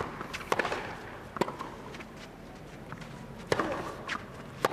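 Tennis rally: rackets strike the ball back and forth, with four sharp pops in all, about a second or two apart.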